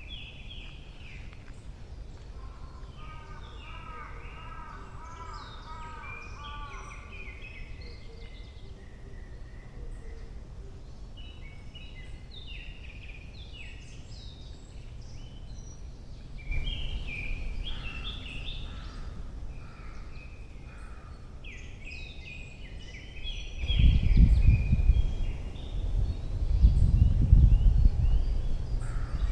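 Several songbirds singing in a forest: overlapping chirps, trills and short whistles, one of them a fast rippling trill a few seconds in. In the last several seconds loud gusty rumbling, wind buffeting the microphone, rises over the birdsong.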